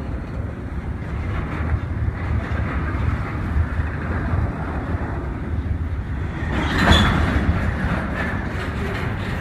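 Train rolling by on the rails with a steady rumble of wheels and cars. About seven seconds in there is a brief louder, sharper noise.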